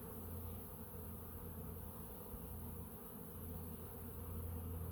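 Honeybees buzzing at a busy hive entrance as foragers fly in and land with full pollen baskets, a steady hum.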